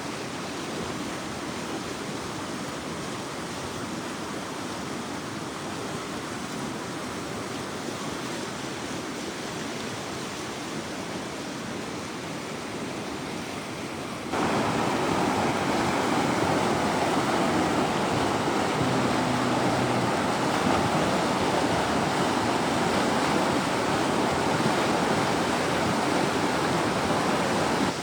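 Floodwater rushing in a swollen wadi after heavy thunderstorms, a steady noise of fast-moving water. About halfway through it becomes suddenly louder and fuller.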